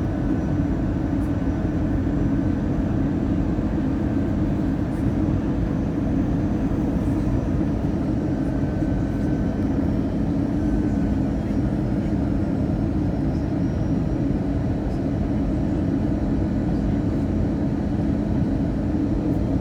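Steady cabin noise inside an Airbus A320-214: an even engine-and-air rumble with a constant low hum.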